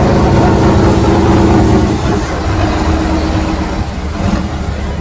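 Electric motor and gear whine of a radio-controlled truck driving. It holds steady pitches for the first few seconds, then drops away into a rougher noise.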